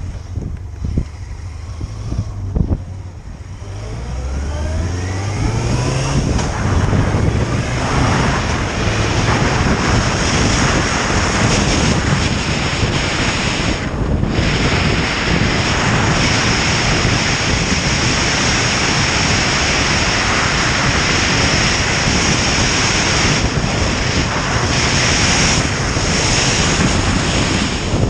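Motorcycle engine accelerating, its pitch rising over a few seconds early on, then a loud steady rush of wind over the microphone at riding speed with the engine underneath.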